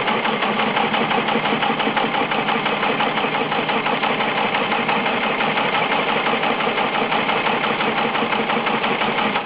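Fully automatic broom machine running steadily with a fast, even mechanical clatter.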